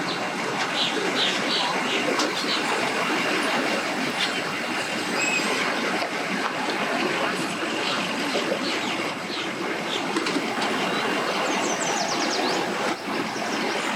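Steady wind noise rushing over the microphone, with a few short bird chirps, several about 12 seconds in.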